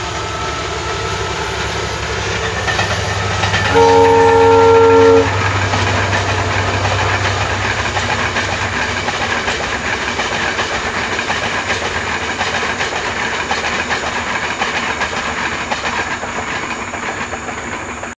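Diesel-hauled passenger train passing: a low engine drone, then one horn blast of about a second and a half, several tones at once, about four seconds in. The rumble and clatter of the coaches rolling along the track follows and fades toward the end.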